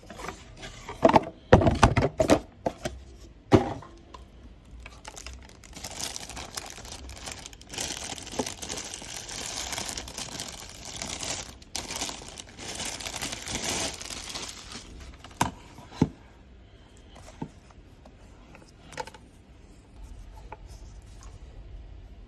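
Headset packaging being handled and opened: a cluster of sharp knocks and clicks in the first few seconds, then several seconds of rustling, then a few scattered light taps.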